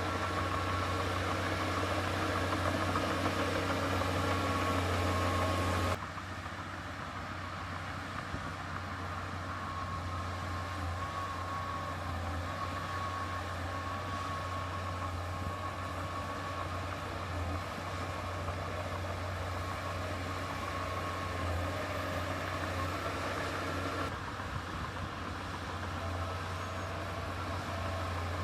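Heavy diesel engine of earthmoving machinery running steadily with a deep hum. About six seconds in the sound abruptly drops and thins, and it shifts again near the end.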